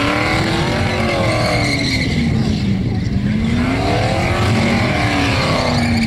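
Holden VP Commodore's 5-litre V8 held at high revs in a burnout, the revs swinging up and down twice as the throttle is worked, over the hiss of spinning rear tyres.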